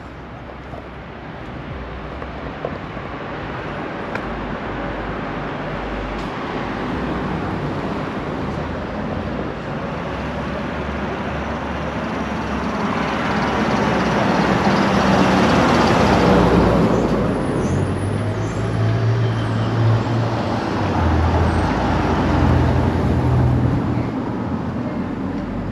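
Road traffic: a motor vehicle approaching and passing close by, growing louder to a peak a little past the middle, then the low rumble of an engine in the second half.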